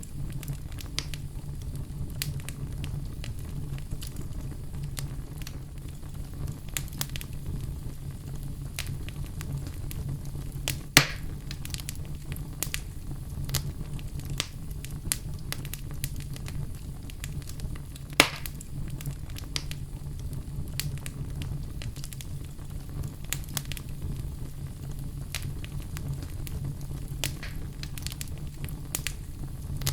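Wood fire crackling in a fireplace: a steady low rumble under frequent small snaps, with two louder pops about eleven and eighteen seconds in.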